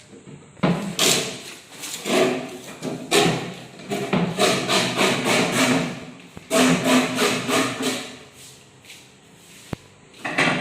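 Irregular scraping and knocking from hand work, in repeated bursts that die down near the end, with one sharp click late on.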